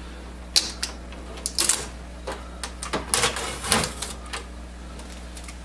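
Packing tape being peeled off a plastic inkjet printer case: a run of sharp clicks and short crackling tears, loudest about three to four seconds in.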